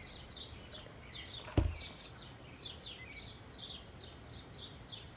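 Small birds chirping outdoors: a steady run of short, high, falling chirps, about two or three a second, with a single thump about one and a half seconds in.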